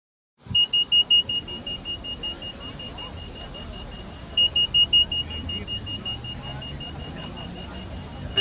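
Rapid high-pitched electronic beeping, about five beeps a second, in two runs. Each run starts loud and fades, the second beginning about four and a half seconds in, over a low hum.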